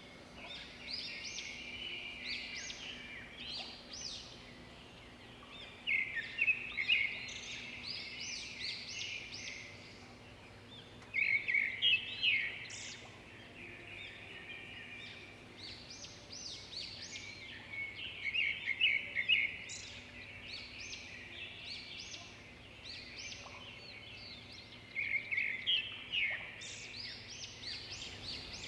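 Songbirds singing: quick high chirps and trills in bouts every few seconds, some louder bouts standing out.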